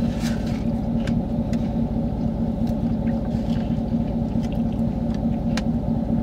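A truck's engine idling, heard from inside the cab as a steady low rumble with a constant hum. A few faint clicks and rustles sit on top.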